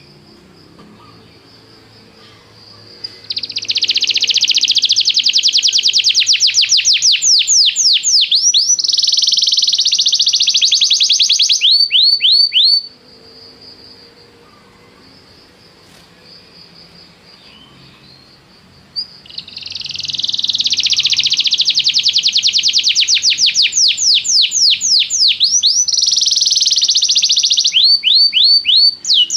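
Domestic canary singing: two long song bouts of rapid high trills and fast runs of falling whistled notes, each lasting about nine seconds, with a pause of about six seconds between them.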